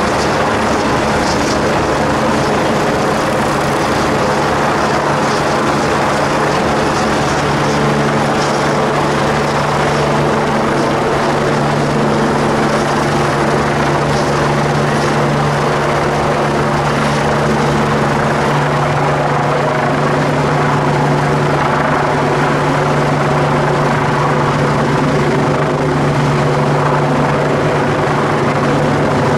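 Rescue helicopter hovering close overhead: rotor and turbine running loud and steady, with a strong constant hum throughout.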